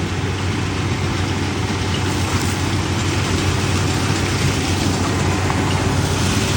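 Corn harvester's diesel engine running steadily, a constant low hum under the clatter of the machine.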